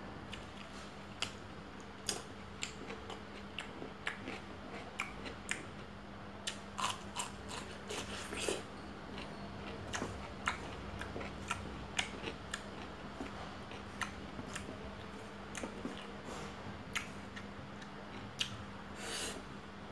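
Close-up mouth sounds of a person eating by hand: chewing with irregular wet clicks and smacks, a few a second, over a steady low hum.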